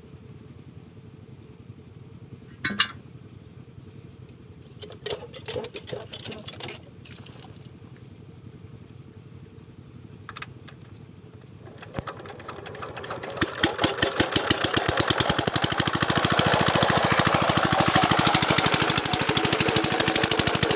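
Diesel water-pump engine starting: a few knocks and clatters, then about twelve seconds in it begins firing. It picks up over a few seconds into a loud, fast, even run.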